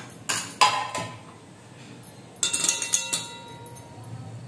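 Metal kitchen utensils and dishes knocking together: two sharp clinks near the start, then a short rattle of clatter about two and a half seconds in, each leaving a ringing tone.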